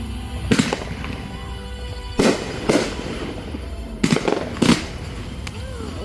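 Aerial fireworks shells bursting: five sharp bangs in about four seconds, the later ones in quick pairs, with music playing in the background.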